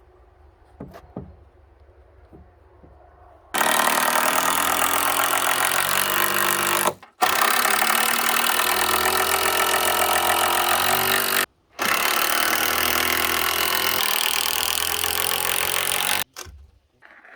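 A loud engine or power tool running hard, its pitch sagging slightly. It is heard in three stretches broken by two abrupt cuts, after a few faint clicks at the start.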